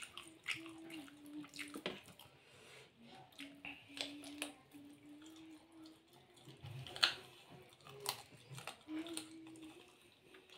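Wet chewing and mouth smacks of a man eating rice and curry by hand, with scattered sharp clicks, the loudest about seven seconds in. A faint steady hum runs underneath.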